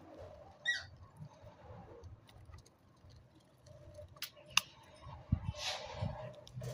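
Budgerigars: one short chirp near the start, then scattered sharp clicks and scratchy rustling, with a brief harsh burst about two-thirds of the way through.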